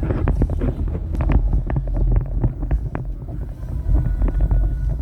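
Storm wind buffeting the microphone in a loud, steady low rumble, with many irregular sharp taps and clicks scattered through it.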